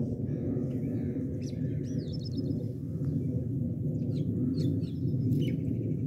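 Small birds chirping in short, scattered calls, with a quick trill near the end, over a steady low rumbling noise.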